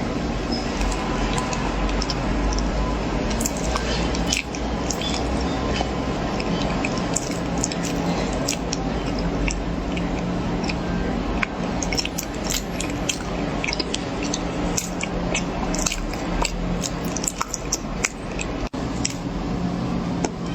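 Someone chewing and biting corn close to the microphone, with many sharp, crisp crunches over a steady low hum.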